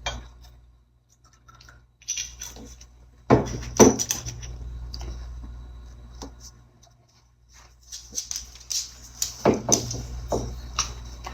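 Scattered clicks, knocks and clatter of objects being handled, loudest about three to four seconds in and again near the end, over a steady low hum.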